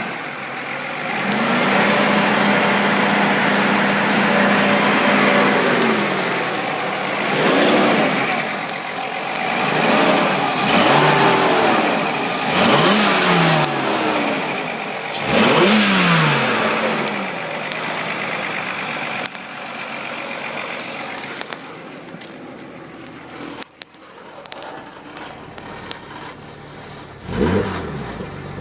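Mercedes-Benz C36 AMG's M104 3.6-litre straight-six running and being revved by hand. It is held at raised revs for a few seconds, then blipped several times with the pitch rising and falling each time. It drops back to a quieter idle, and one more rev begins near the end.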